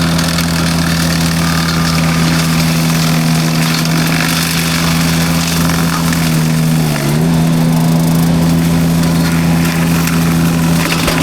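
Derette V1000 mini skid steer running its forestry drum mulcher: a steady, loud machine hum with a hiss of the spinning drum over it, the pitch dipping briefly about seven seconds in.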